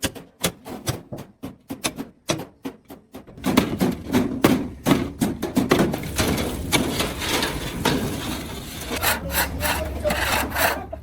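Metalworking noise: a quick run of sharp hammer-like knocks, then, about three and a half seconds in, a continuous rough scraping or rasping noise with knocks running through it.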